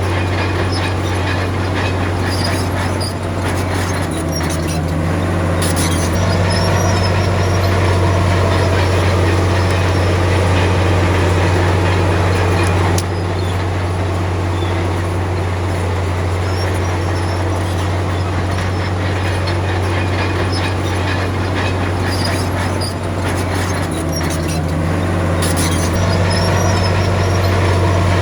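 Komatsu D53P crawler bulldozer's diesel engine running steadily with a deep hum, its note shifting briefly about four seconds in and again near the end as the load changes, with occasional metallic clanks from the tracks and blade.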